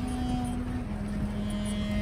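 Four-wheel-drive vehicle running as it drives along a sandy off-road track, its low engine sound under background music with long held notes that step in pitch.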